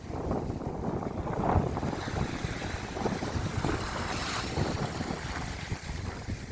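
Gusty wind blowing across the microphone, a low buffeting noise that rises and falls in surges.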